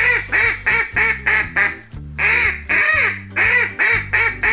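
A duck quacking: a quick series of short quacks in two runs, with a brief pause near the middle. Background music with steady bass notes plays underneath.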